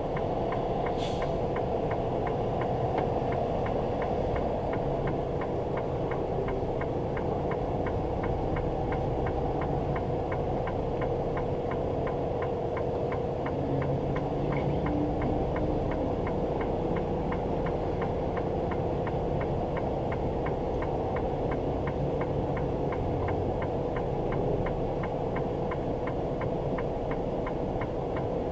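Steady in-cab drone of a semi-truck on the road: engine and road noise with a held hum, and a faint regular ticking about three times a second.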